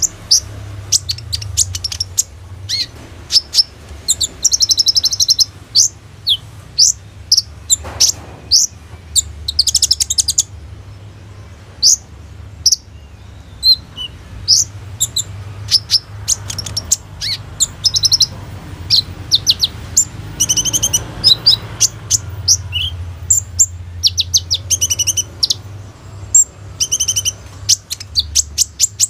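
Kolibri ninja sunbird singing: a rapid, high-pitched chatter of sharp chirps and short trills, broken by brief pauses.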